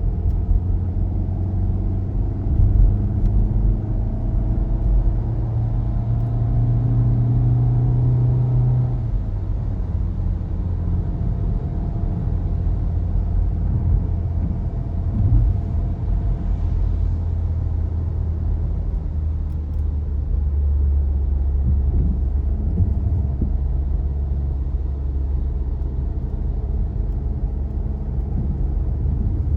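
Car engine and road noise while driving: a low rumble with the engine note climbing steadily for about nine seconds, then dropping away and settling into a steady low drone.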